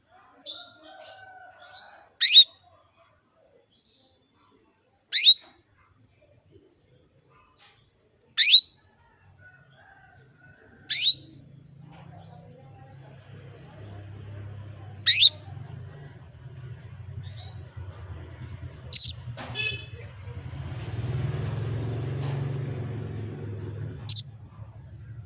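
Female domestic canary, a hen in breeding condition calling to a male, giving loud, sharp call notes that sweep steeply down in pitch. There are about seven of them, a few seconds apart, with soft quick runs of short notes between. A low hum grows underneath from about halfway.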